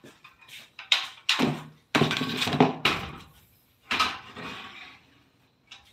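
A series of knocks, clatters and scrapes of hard objects being handled and moved. The loudest is a longer clattering scrape from about two to three seconds in, with another clatter about four seconds in.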